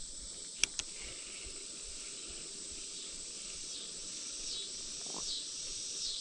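Steady high-pitched chirring of insects in an evening creekside chorus. Two sharp clicks come close together about two thirds of a second in. A short falling call repeats, a little under a second apart, from about four seconds in.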